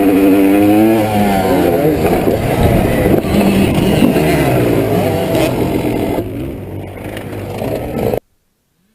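Motocross dirt bike engines running and revving, the pitch rising and falling. The sound cuts off suddenly about eight seconds in.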